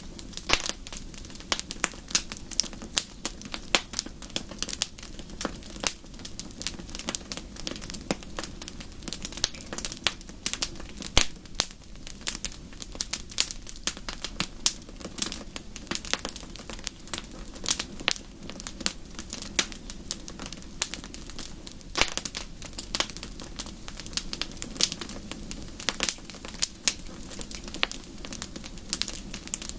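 Wood fire crackling, with many irregular sharp pops and snaps over a soft steady hiss.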